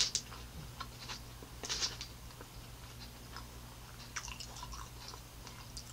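Close-up chewing of a mouthful of thin-crust supreme pizza topped with olives and vegetables: irregular soft wet clicks and crunches, a bit louder right at the start and again about two seconds in.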